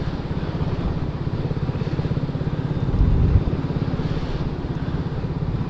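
2023 BSA Gold Star's 652 cc single-cylinder engine running steadily, with a brief louder surge about three seconds in.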